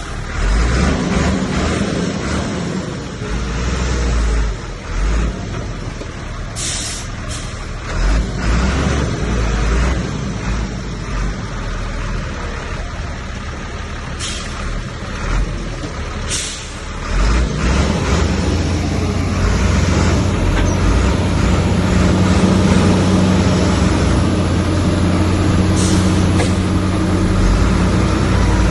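Heavy diesel earthmoving machine's engine running and working, with several short hissing bursts. A little past halfway it settles into a steadier, slightly louder drone.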